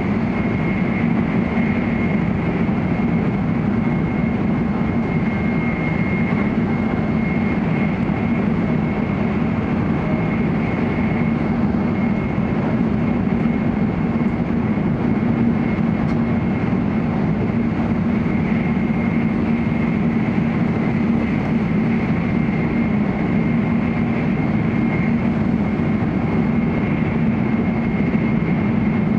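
Running noise of an N700A Shinkansen at speed, heard from inside the vestibule: a steady rumble and rush, with a thin, steady high whine above it.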